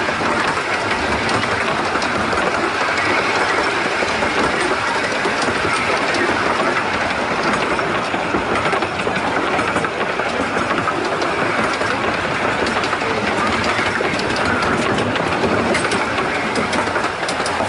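Miniature steam train running, heard from an open carriage: a steady rumble and clatter of wheels on the rails.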